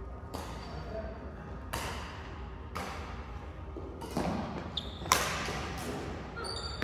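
Badminton rally: rackets striking the shuttlecock about five times, roughly a second apart, the hardest hit about five seconds in.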